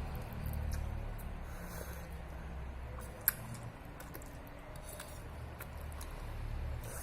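Spicy instant noodles being eaten: chewing and slurping, with light clicks of chopsticks or a fork and one sharp click about three seconds in, over a low background rumble.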